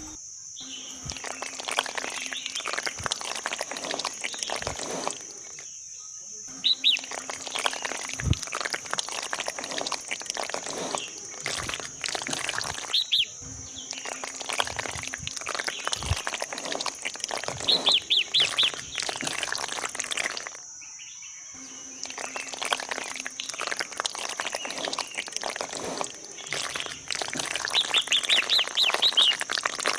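Birds chirping in short trills several times, over a steady high hiss and many small clicks and scrapes.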